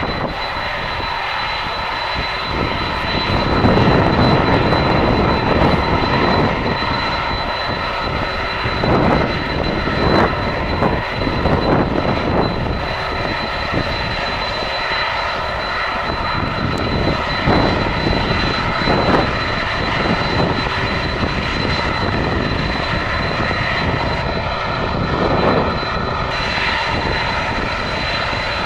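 Airliner engines running: a steady rushing drone with a thin, steady high whine, swelling briefly several times.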